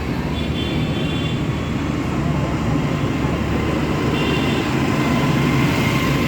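Tractor engines running steadily, a continuous low drone as the tractors drive by.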